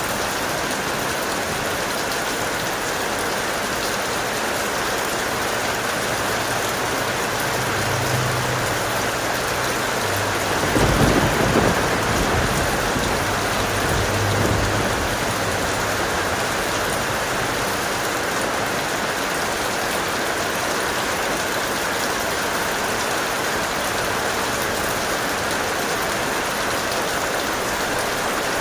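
Heavy, steady rain with one thunderclap: a low rumble builds about eight seconds in, then a sharp crack about eleven seconds in that rolls off over the next few seconds.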